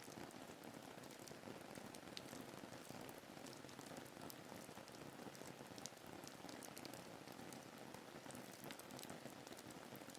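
Faint, steady rain ambience: an even patter of rainfall with scattered sharp drop ticks.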